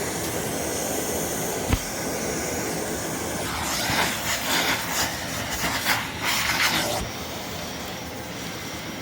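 A motor-driven air blower running with a steady rushing hiss, used to clean dust out of a vacuum cleaner. A sharp knock comes about two seconds in, and crackling, rustling handling noise from about three and a half to seven seconds.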